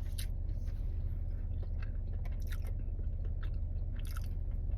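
A person chewing a mouthful of strawberry biscuit: soft, irregular mouth clicks and smacks over a steady low hum.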